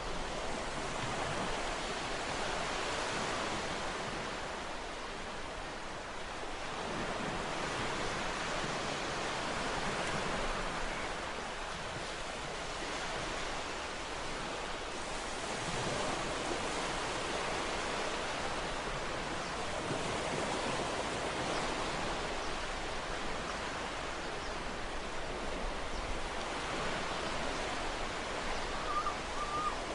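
Ocean waves breaking and washing on a shore in a steady, continuous rush, swelling and easing gently every few seconds.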